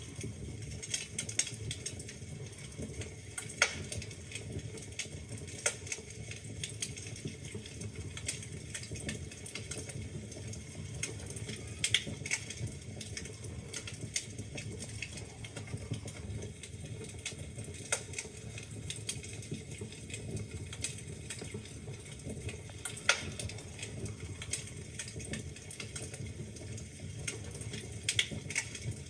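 Wood fire crackling in a fireplace: irregular sharp pops and snaps from the burning logs over a steady low rumble of flame, with a few louder pops.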